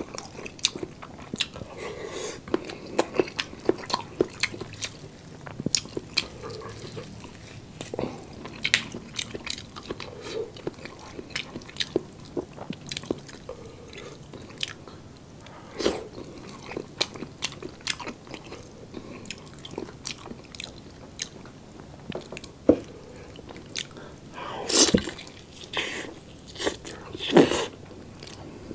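Close-miked chewing of roast chicken: wet mouth clicks and smacks, with a few louder crackles near the end.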